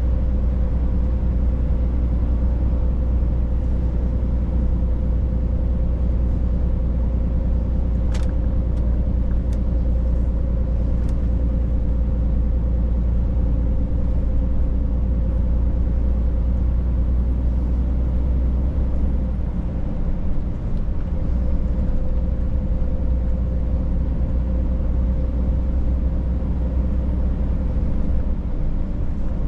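Scania truck driving along: a steady engine and road drone with a strong low rumble and a steady hum, the rumble easing about twenty seconds in. A few short clicks sound about eight to eleven seconds in.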